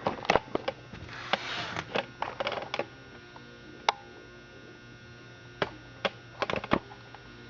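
Scattered clicks and light knocks from a vintage Clinton chainsaw being handled and turned over by hand, in several clusters, over a low steady hum.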